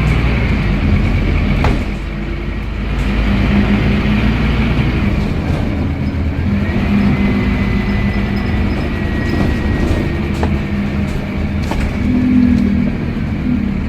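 Scania N230UD double-decker bus under way: engine drone with the whine of its ZF Ecomat automatic gearbox, and scattered rattles and clicks. The sound dips briefly about two seconds in.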